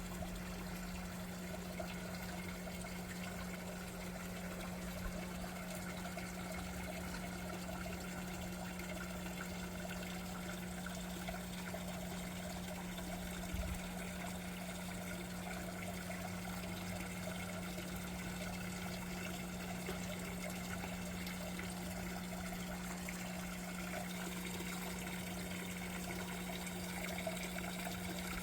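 Steady trickling of running water, with a constant low hum underneath.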